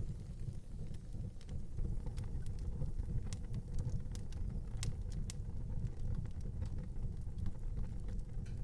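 Wood fire burning in an outdoor fireplace: a steady low rumble with scattered sharp crackles and pops. The loudest two pops come close together about five seconds in.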